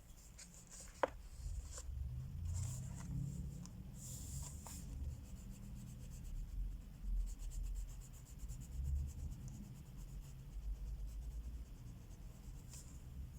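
Crayola wax crayons scratching on colouring-book paper in quick back-and-forth strokes, with a sharp click about a second in.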